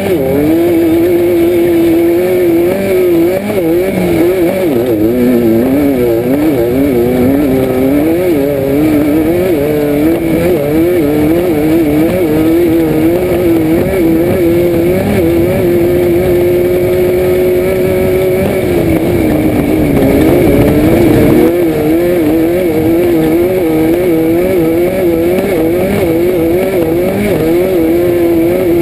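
Baja Bug race car's air-cooled Volkswagen flat-four engine running hard, heard from inside the cabin, its revs rising and falling rapidly as it races over rough ground. The revs hold steady for a few seconds about two-thirds of the way through, then dip briefly before wavering again.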